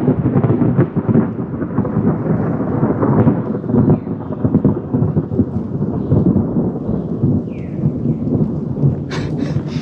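A long, low rumble of very close thunder rolling overhead.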